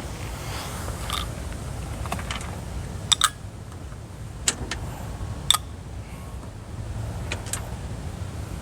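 Scattered sharp metallic clicks and clinks of hand tools and a small bolt against a car door's sheet metal, about eight at uneven intervals, over a steady low rumble.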